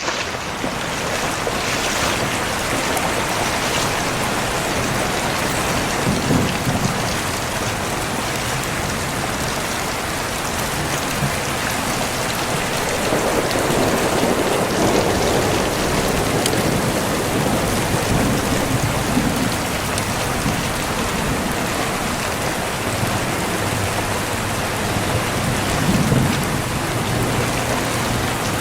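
Heavy rain pouring steadily, a dense even hiss of rain hitting surfaces, with a few low swells along the way.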